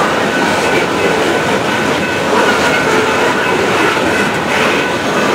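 Coal hopper cars of a loaded-or-empty freight train rolling steadily past at a grade crossing: the continuous noise of steel wheels on rail.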